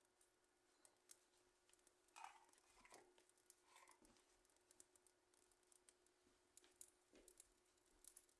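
Wood fire crackling faintly: sparse small clicks and pops, with a few brief, slightly louder hissing snaps a couple of seconds in.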